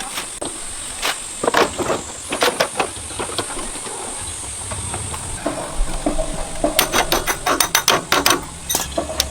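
Irregular sharp metallic clicks and taps of hand tools on metal parts, with a quick run of them about seven to eight and a half seconds in, over a steady high hiss.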